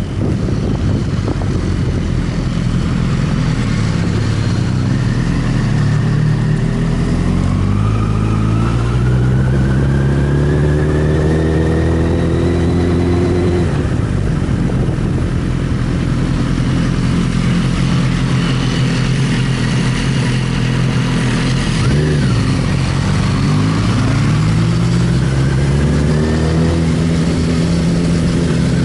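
Inline-four sport motorcycle engine under way, its pitch climbing steadily as it accelerates, then dropping sharply about halfway through at a gear change or roll-off. It holds steady, dips briefly about three quarters of the way in, and climbs again near the end.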